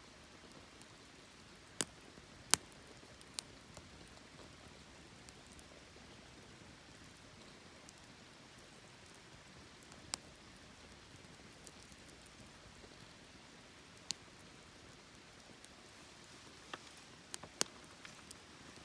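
Wood campfire burning quietly with a soft steady hiss, broken by sharp crackles and pops: a cluster of pops about two seconds in, single ones around ten and fourteen seconds, and a quick burst near the end.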